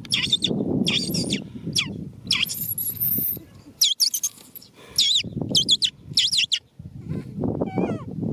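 Young macaque crying, with repeated shrill squeals and screams that bend up and down in pitch, several in quick succession, and a low rumbling noise underneath.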